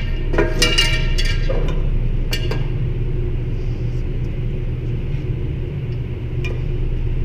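A steady low rumble in the background at a shooting range, with a few short metallic clinks and sharp clicks in the first couple of seconds and one faint click later.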